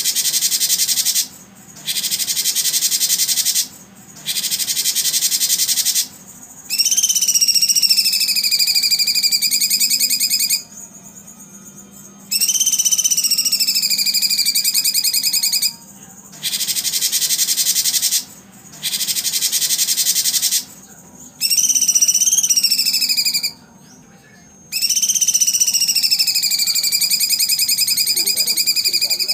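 Recording of nature calls for training songbirds: stretches of high, dense, rapidly pulsed chirring alternate with long whistled bird calls that dip in pitch and then hold steady for several seconds. The pieces are spliced together with abrupt short gaps.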